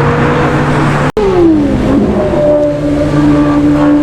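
A car's engine revving and accelerating as it pulls away. The sound breaks off for an instant about a second in, then the engine note falls and settles into a steady tone.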